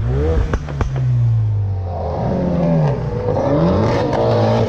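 Car engine running with a steady low drone, and wavering higher tones over it from about two seconds in.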